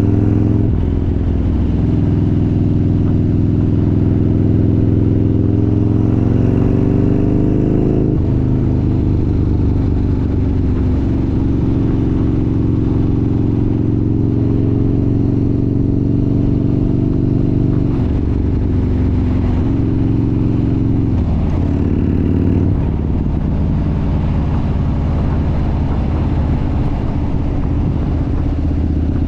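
Harley-Davidson V-twin motorcycle engine running under way, its pitch rising with throttle and dropping at gear changes about a quarter of the way in and several times around two thirds of the way in.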